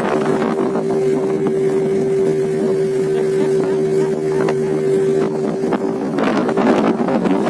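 Boat engine running steadily at a constant pitch under way at sea. About six seconds in, a louder rushing noise of wind comes in over it.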